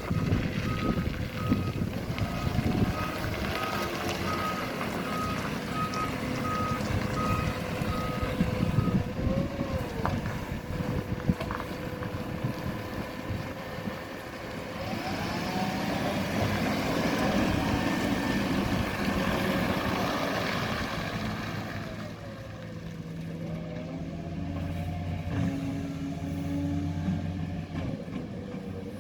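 Garbage truck reversing with its backup beeper sounding steadily until about nine seconds in, while the engine revs up and down several times; a couple of sharp knocks come shortly after the beeping stops.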